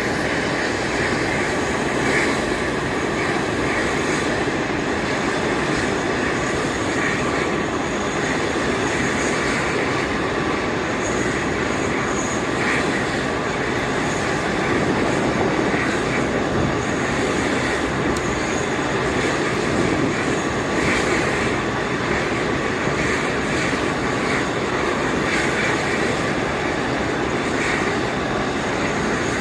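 Airbus A380 airliner's four jet engines running as it comes in to land, a steady jet noise that holds at a constant level throughout.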